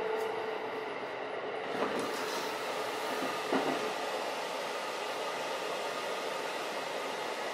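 Steady running rumble of the 285 series Sunrise Izumo sleeper train, heard inside the carriage. About two seconds in, the toilet's automatic sliding door opens with a brief swish, and there is a short knock a second and a half later.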